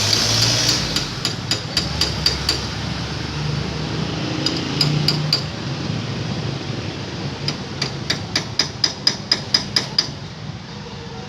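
Hammer striking metal in sharp, ringing taps during rear axle seal work: a string of blows, a short pause, three more, then a faster run of about four blows a second near the end.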